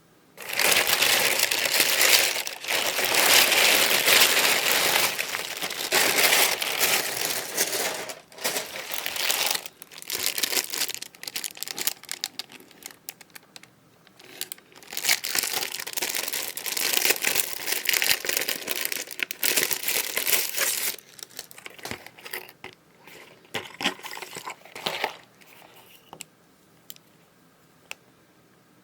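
Packaging crinkling and rustling as it is unwrapped by hand. It comes in long, loud stretches with short pauses, then thins to scattered rustles and light clicks near the end.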